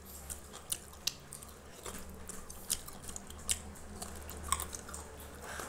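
A person biting and chewing a piece of cooked chicken close to the microphone: irregular mouth clicks and smacks, one or two a second.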